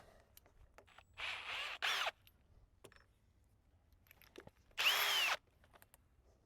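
Power drill with a screwdriver bit driving screws into wood. It runs in short bursts, one about a second in followed at once by a brief second spin, and another about five seconds in, with the motor pitch rising and falling each time.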